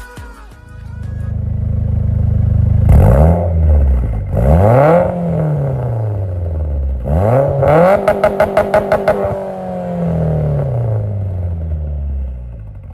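Car engine revved hard several times, each rev climbing quickly and falling back. On one rev, about eight seconds in, the engine gives a quick stutter of sharp pulses before the revs drop away.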